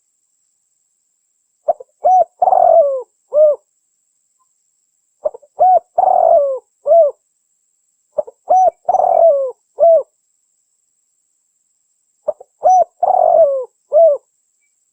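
Spotted dove cooing: four repeated phrases about three and a half seconds apart, each a few short coos around one longer, drawn-out middle note.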